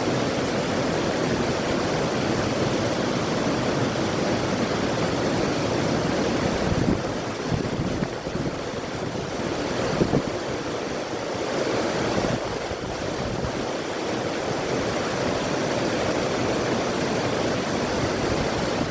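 A river rushing steadily, with wind, its level swelling and dipping a little in the middle.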